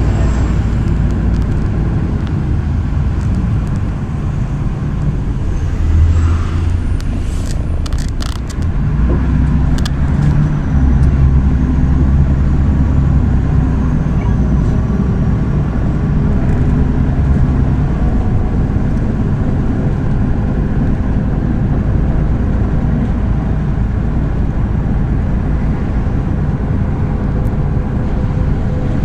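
MAZ-103 city bus riding, with steady engine and road rumble. A few sharp clicks come about eight to ten seconds in, and the engine's low hum is louder for a while after that.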